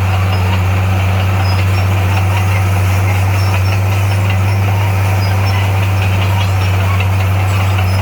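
Diesel engine of heavy earthmoving equipment running at a steady, even speed with a constant low hum.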